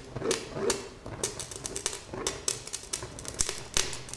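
Burning droplets of molten plastic falling from a lit plastic sparkling-wine stopper, each drop giving its own short buzzing hiss. The drops come in quick, irregular succession, several a second.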